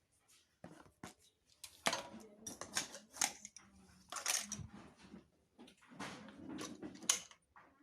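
Scattered light clicks and knocks at irregular intervals, small hard parts being handled.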